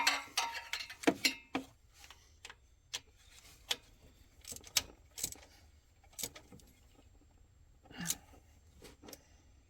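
Irregular metallic clicks and clinks of hand tools and bolts being handled, with a quick cluster at the start and single clinks after.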